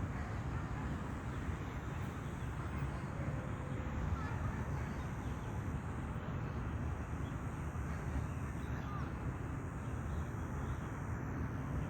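Steady low background rumble with no clear bird call.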